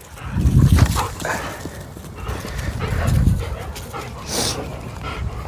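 A pack of dogs moving about on the ground, with some knocks and scuffs. Low rumbling noise comes in twice, about half a second in and around three seconds in.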